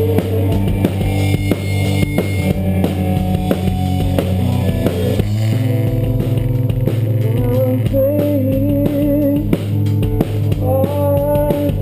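Band music with a drum kit, bass and guitar playing an instrumental passage; a wavering melodic lead line comes in about seven seconds in.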